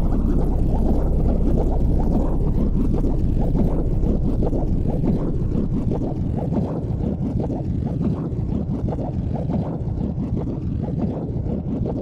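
Steady low rumble of a car at highway speed, with tyre and wind noise heard from inside the cabin, easing off slightly over the stretch.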